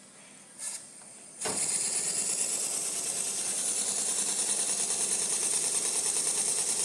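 Small engine picking up speed about a second and a half in, then running fast and steady: a rapid even mechanical chatter with a hiss above it, growing slightly louder.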